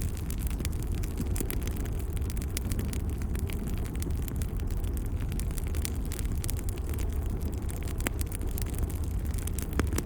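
Wood fire in a fireplace crackling: many scattered sharp pops and snaps over a steady low rumble.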